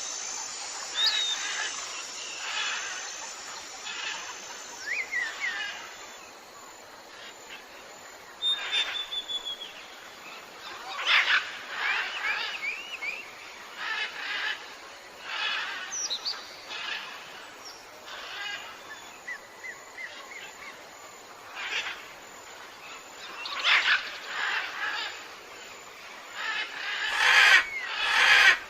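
Several jungle birds calling over a steady background hiss. The calls are short whistles, quick rising and falling notes and bursts of chatter, and the loudest bursts come near the end.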